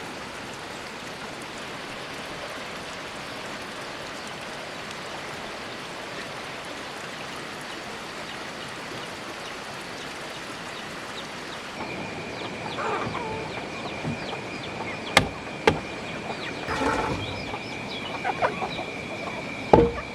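A steady rushing hiss like running water, then about two-thirds of the way in poultry start clucking, with a few sharp knocks and a steady high-pitched whine underneath.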